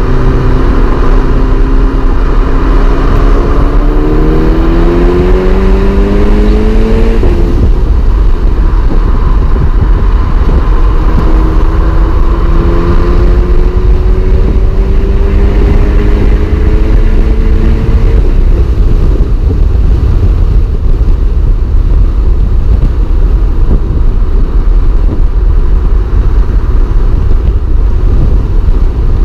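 Mk6 Volkswagen Golf R's turbocharged four-cylinder heard from inside the cabin, rising in pitch as it pulls, dropping abruptly about seven seconds in at an upshift of the DSG gearbox, then climbing again before its note fades out about eighteen seconds in. A loud, steady low rumble of road noise runs underneath.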